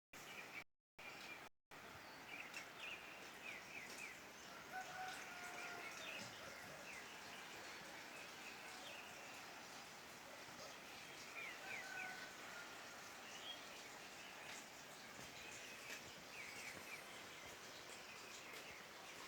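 Faint outdoor night ambience: a steady hiss with scattered short animal chirps in small quick runs and a few brief whistled notes. The sound cuts out a few times in the first two seconds.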